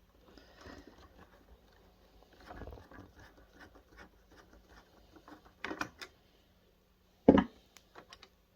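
Small clicks, taps and rustles of a screwdriver and plastic projector casing being handled while a small screw is worked out. A few sharper clicks come near six seconds, and one loud knock follows a little later.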